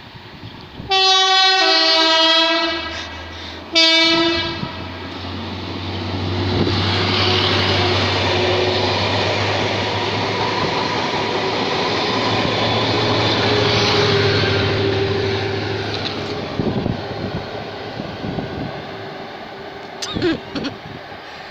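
Class 73 electro-diesel locomotives passing through with carriages: a loud two-tone horn, high note then low, about a second in, and a shorter low horn note at about four seconds. Then the steady engine drone and rumble of wheels on rails as the train goes by, fading away over the last few seconds.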